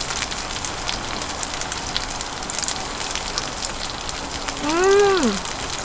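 Oil sizzling and crackling steadily in a frying pan as food fries crisp. Near the end there is one short voiced sound that rises and then falls in pitch.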